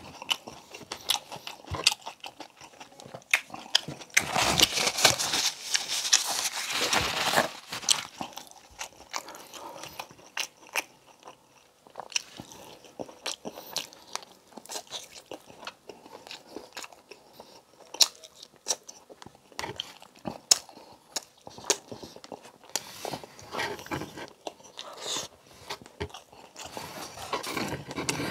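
Close-miked mukbang eating sounds: a man biting and chewing braised pork humba and rice with his mouth, a steady run of wet mouth clicks. There is a louder, denser stretch of chewing about four to eight seconds in.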